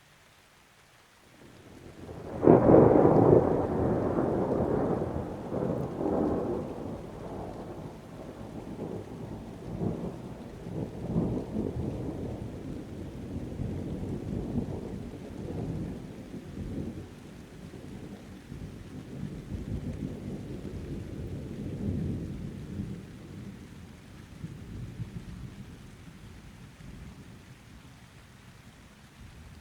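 Thunder over steady rain: a loud clap about two and a half seconds in, followed by a long rolling rumble that swells again several times and slowly dies away.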